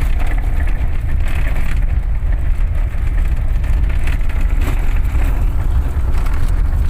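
A vehicle on the move: a steady low rumble of engine and road noise with no breaks or changes.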